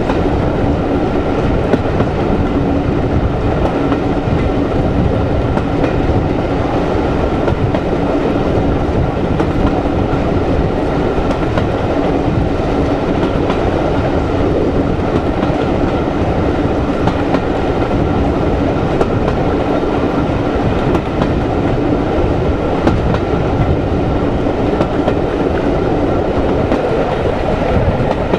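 Diesel-hauled passenger train running steadily along the line, heard from an open coach window near the rear: a constant rumble of wheels on the rails with a steady low hum running through it.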